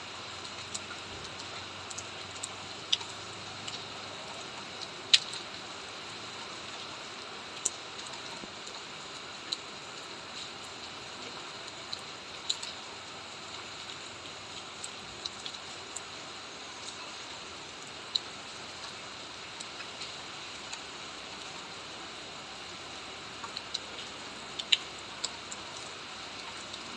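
Steady light rain hiss with irregular sharp drips of raindrops hitting a nearby surface, a few of them noticeably louder.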